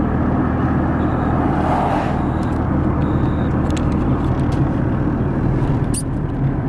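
Car engine and road noise heard from inside the cabin while driving: a steady low drone under a constant rush of noise.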